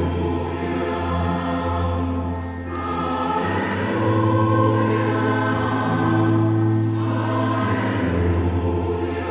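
Choir singing long held chords, several voice parts sounding together.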